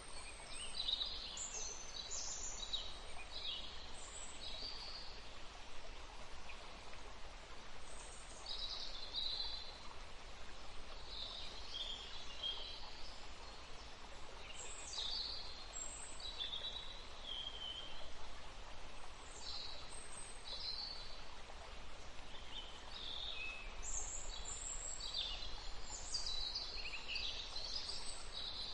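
Forest stream running steadily, with small songbirds singing short high phrases on and off over it.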